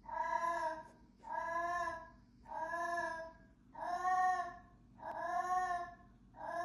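A pet animal giving repeated pitched cries, each under a second long and about one a second, six in all.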